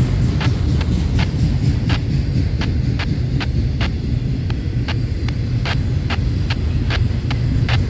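Freight cars of a Union Pacific manifest train rolling past: a steady low rumble of steel wheels on rail, cut by a string of sharp clicks as the wheels pass over the track, about two to three a second.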